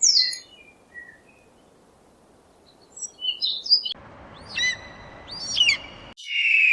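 A series of chirping, twittering animal calls, bird-like in kind, with short high chirps at the start and again about three seconds in. After an abrupt change about four seconds in, two sweeping whistled calls sound over a background hiss, and near the end a loud steady call begins.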